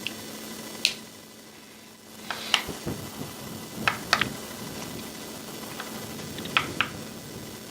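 Faint open-microphone background on a radio feed: a low steady hum and hiss with scattered sharp clicks and pops, two of them close together near the end.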